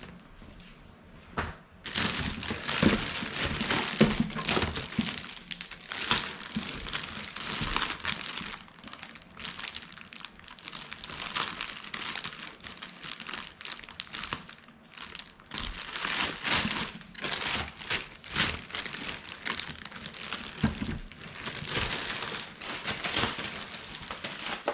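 Packaging crinkling and rustling in irregular, continuous bursts as a Roomba robot vacuum is unwrapped and lifted out of its wrapping.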